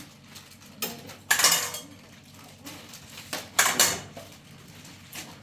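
A few short clattering, scraping noises, like objects being handled and knocked together, the loudest about a second and a half in and again about three and a half seconds in.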